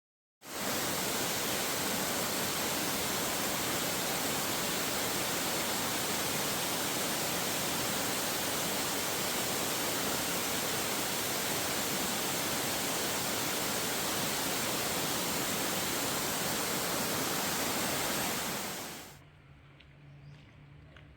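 Waterfall pouring, a loud, steady rush of falling water that starts abruptly just after the beginning and fades away near the end.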